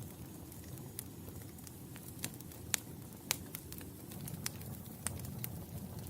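Fire in a fireplace crackling, with sharp, irregular pops over a low, steady rumble; a few louder pops come in the middle.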